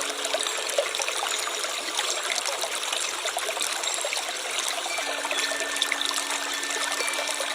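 Stream water trickling and babbling steadily. A faint low steady tone returns about five seconds in.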